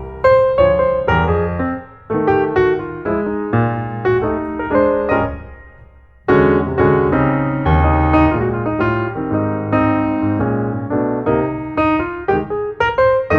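Background piano music, notes played in a flowing pattern, fading out briefly about six seconds in before starting again.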